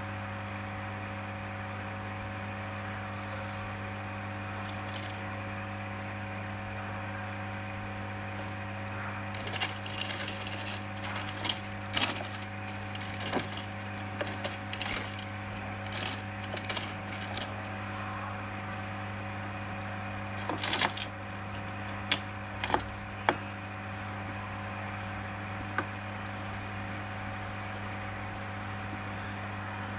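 A steady low hum with a few higher tones above it. Irregular sharp clicks and knocks come in clusters: a run from about ten seconds in, and a few louder ones around twenty to twenty-three seconds.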